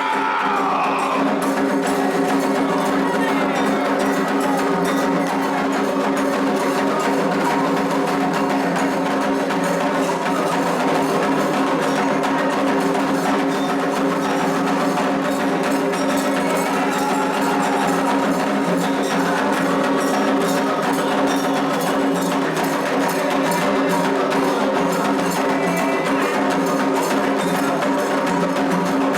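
Candomblé ceremonial drumming, with hand drums and a struck bell keeping a dense, steady rhythm throughout.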